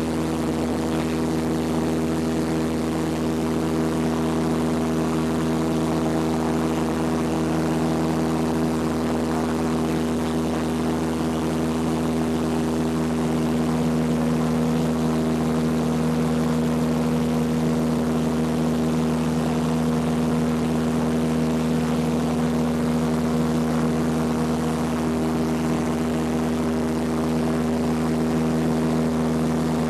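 Cessna 172P's four-cylinder Lycoming engine and propeller running at a steady, unchanging power, a continuous drone.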